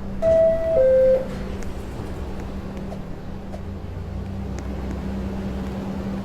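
NYC subway door-closing chime, two descending tones, the doors closing. The train then pulls out with a steady rumble and hum that swells a few seconds in.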